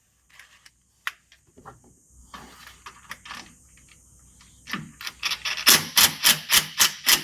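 Scattered metal clicks and knocks, then about halfway through a fast, even run of loud, sharp ratcheting clacks, about four a second.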